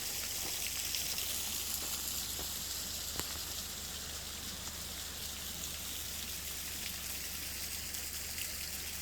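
Valley stream water running steadily, a high rushing hiss with a few faint ticks and splashes.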